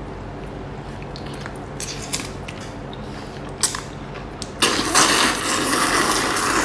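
Small mouth and utensil clicks, then about four and a half seconds in a loud slurp of spicy noodles lasting about two seconds.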